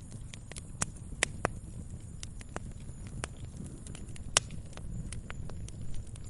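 Wood fire crackling in a fireplace: irregular sharp pops and snaps over a low steady rumble of flame, with one louder snap a little past the middle.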